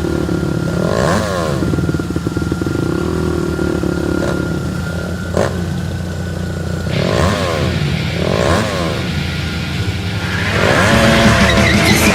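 A motorcycle engine running steadily, with a few brief swells in pitch.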